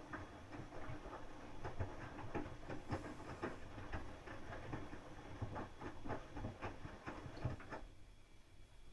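Hoover DYN 8146 Pulse washing machine in its wash cycle, the drum turning and the laundry tumbling with irregular soft knocks; it falls quieter about eight seconds in.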